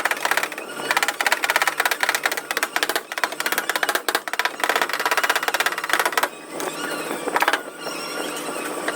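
Rapid, evenly repeated tapping on a car body panel during paintless dent repair, with two short pauses in the second half.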